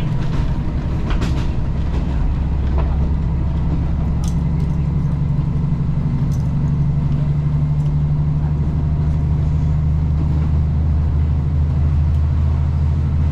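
A vehicle's engine running steadily with a low hum that holds one pitch, with a few light clicks over it.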